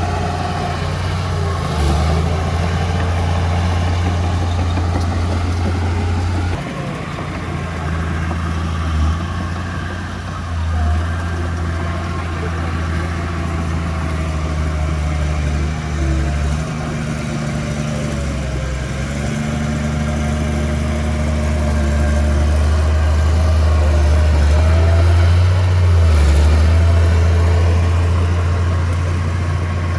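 Diesel engine of heavy earthmoving machinery running steadily with a deep hum, its note shifting now and then as it works and swelling a little past the middle.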